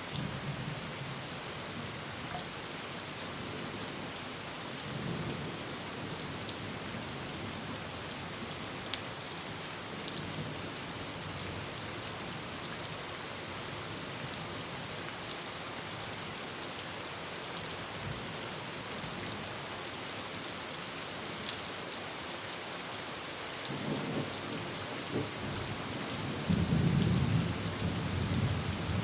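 Heavy rain drumming steadily on a tin roof, with scattered single drop hits. Thunder rumbles low in the background and swells into a louder, longer roll over the last few seconds.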